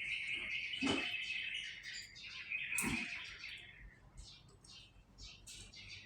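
Canary singing: a long rolling trill, a second trill, then a run of short chirping notes. Two soft knocks sound under the song about one and three seconds in.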